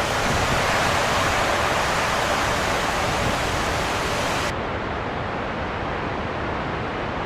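Steady, dense rush of heavy storm rain. About four and a half seconds in, the brightest hiss cuts off abruptly, leaving a duller rush.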